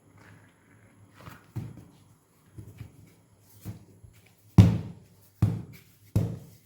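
Knocks and thuds of dough being flattened on a work surface: a few soft knocks, then four loud thuds about two-thirds of a second apart near the end.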